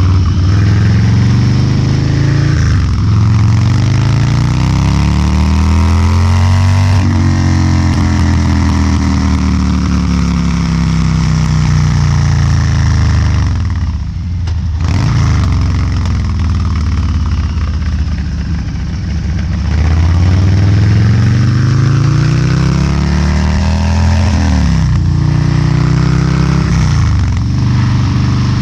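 Harley-Davidson Low Rider's 129ci V-twin with a Two Brothers Racing exhaust under way. It pulls up through two gears, the pitch rising and then dropping at each shift, and winds down in a long falling note as it slows. It then accelerates through the gears again.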